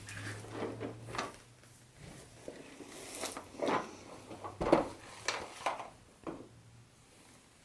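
Handling sounds of the train set's box and packaging: irregular soft knocks, taps and rustles, with the sharpest knock a little past the middle.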